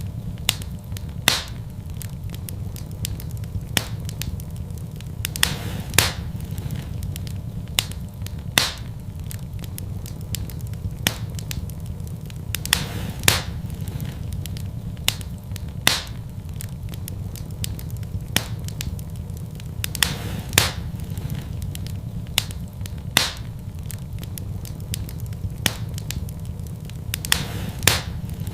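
Wood fire burning in a fireplace, crackling with sharp pops every second or so over a steady low rumble of the flames.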